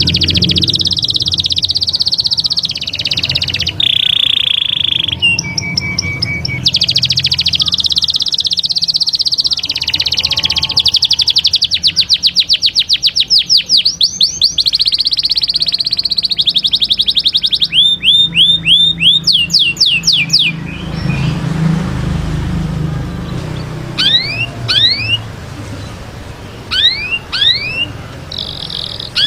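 Canary singing: a long song of rolling trills and fast repeated notes. About two-thirds of the way through it breaks off into separate, quieter rising chirps.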